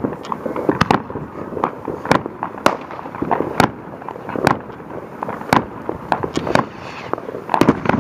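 Fireworks going off: a run of sharp bangs and pops at irregular intervals, roughly one or two a second, with crackling between them.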